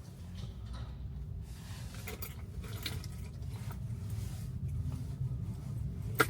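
Low, steady cabin rumble inside a Tesla rolling along, with a few light scattered clicks and one sharper click about six seconds in.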